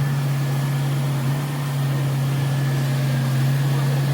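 A steady, low-pitched machine hum that holds one even tone throughout.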